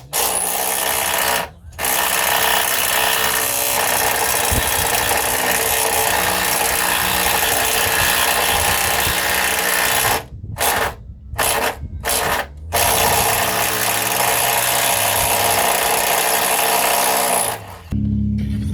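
A power tool running hard in long runs. It stops briefly about a second and a half in, cuts in and out in several short bursts around the middle, then runs again until it stops just before the end.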